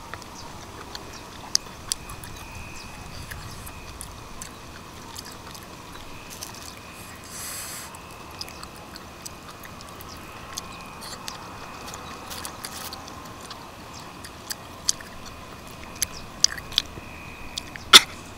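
Close-up eating sounds: a person chewing steamed mangrove clams, with scattered short clicks as the clam shells are handled and knock together. A louder sharp click comes near the end.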